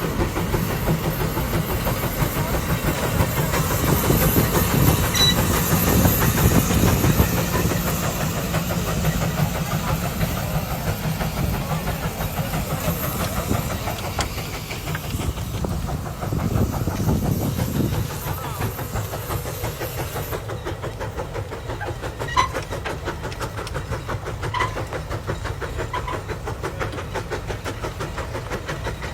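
Steam traction engine working under load, its exhaust beating in a rapid, even rhythm over a steady hiss of steam, hardly breathing heavy. The high steam hiss cuts off about two-thirds of the way through, and the engine runs on a little quieter.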